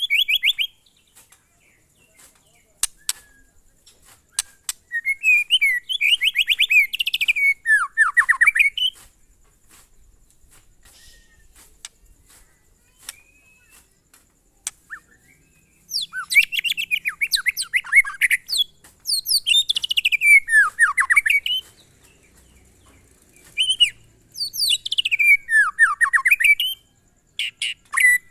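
White-rumped shama singing in phrases of rapid notes that sweep down in pitch, each phrase a few seconds long with pauses between, repeating much the same phrase over and over. This is the monotonous style of song called 'glondong'. A few sharp clicks come about three seconds in.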